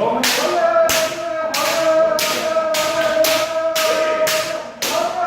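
A kendo player's long, sustained kiai shout, held almost without a break, over a rapid, even series of sharp bamboo shinai strikes, about one every 0.6 seconds. The shout dips briefly near the end and then picks up again.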